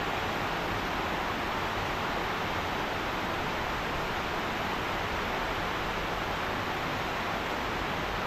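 Stormy rain pouring in a steady, even hiss.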